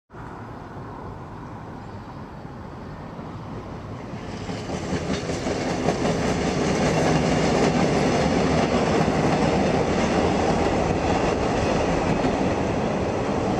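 Staten Island Railway train of R44 subway cars rolling past on the tracks. The wheel and rail noise rises about four seconds in and stays loud.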